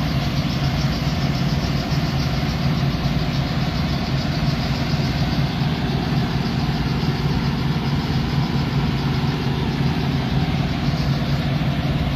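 Truck engine idling steadily, an even hum with no change in speed.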